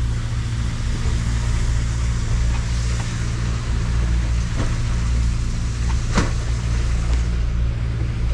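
Boat engine running steadily under a rush of wind and water noise, with two short knocks about four and a half and six seconds in.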